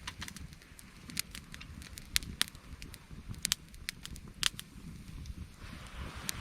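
Wood fire of scavenged branches and driftwood crackling, with irregular sharp pops and snaps over a low steady rumble of burning.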